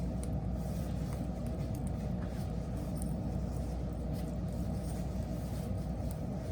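Wood fire burning with a steady low rumble, broken by a few faint crackles.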